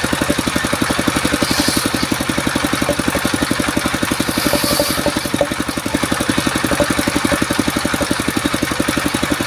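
Engine of a portable circular-saw sawmill running steadily with an even, rapid beat.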